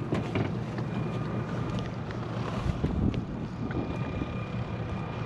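Wind buffeting the microphone, with a faint steady high hum underneath.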